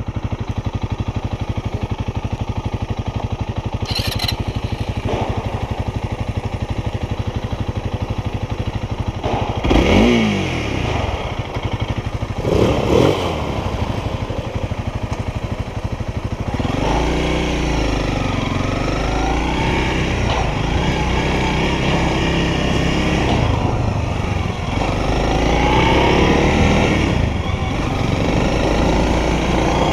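Honda CRF300L's single-cylinder engine idling with an even beat, then revved briefly twice, about ten and thirteen seconds in. Past the halfway mark it pulls away, its pitch climbing and dropping back several times as it runs up through the gears.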